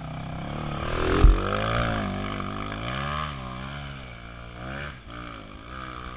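Dirt-bike engine revving up and down again and again as the throttle is worked in the mud, with one hard thump about a second in.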